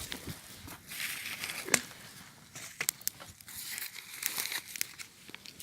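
Paper rustling and crinkling as scraps are handled and sorted, with scattered light clicks and one sharp knock a little under two seconds in, likely a piece of wood dropped onto a pile.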